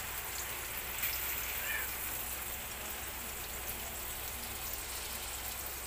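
Chopped garlic, onion and chili sizzling steadily in hot cooking oil in a steel wok.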